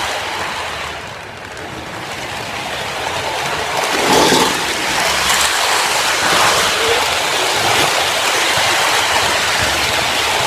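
Train running: a steady noisy rumble and clatter of the ride, with a few louder swells about four seconds in.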